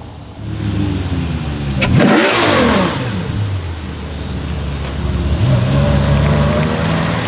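Jaguar F-Type SVR's supercharged 5.0-litre V8 accelerating past: its note climbs, then drops sharply in pitch at its loudest about two seconds in as the car goes by. About five seconds in, an engine's revs climb again and hold steady.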